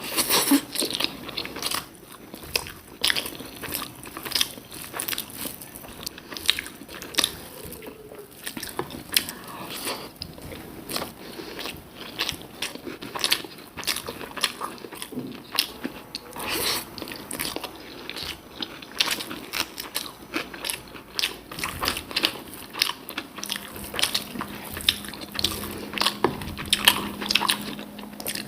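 Close-up eating sounds: chewing and wet smacking of mouthfuls of rice with red amaranth greens cooked with peanuts, a quick run of sharp mouth clicks. A faint steady hum comes in near the end.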